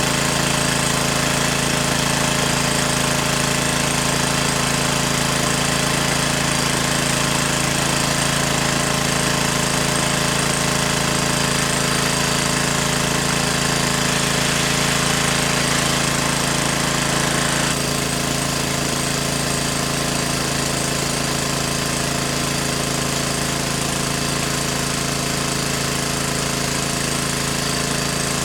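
A motor running steadily at constant speed, with a slight change in its sound about two-thirds of the way through.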